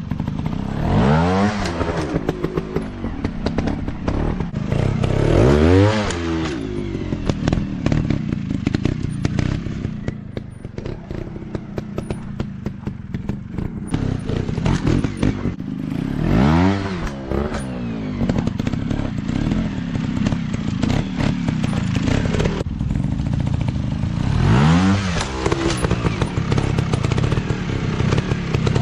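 Dirt bike engines revving in sharp bursts, the pitch climbing and dropping about four times, with the engines running steadily between the revs.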